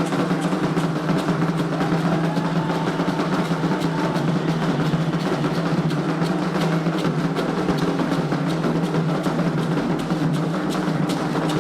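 Candomblé ritual drumming on hand drums, a fast, dense run of strokes that keeps going without a break.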